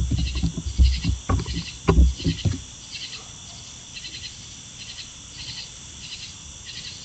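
Close, loud knocks and scrapes of raccoons handling the trail camera for the first two and a half seconds. Then a background of repeated high chirps, about every two-thirds of a second.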